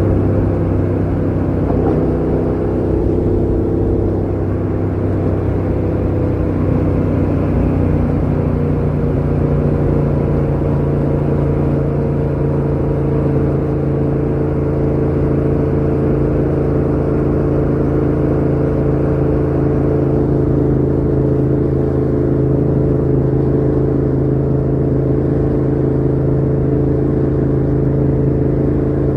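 Yamaha MT-07's parallel-twin engine running through a Mivv GP Pro full exhaust with the dB killer fitted, holding a steady note. The pitch wavers slightly in the first few seconds, then stays nearly constant.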